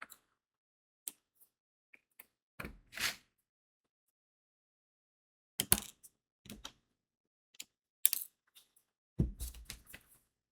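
Diamond painting work: small clicks and taps of crystal beads being pressed onto the sticky canvas, in scattered clusters with silent pauses between, and a brief scrape about three seconds in.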